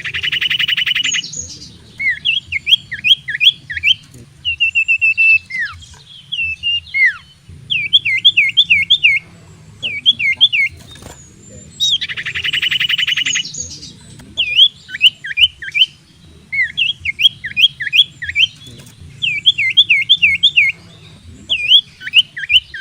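Iora (cipoh) singing loudly. A buzzy rattling trill is followed by runs of quick, clear whistled notes that sweep up and down, and the sequence repeats about every twelve seconds, over a faint low hum.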